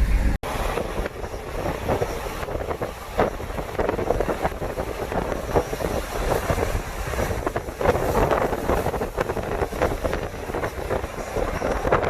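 Pickup truck's road noise while driving, a rough, crackly rush with wind buffeting the microphone.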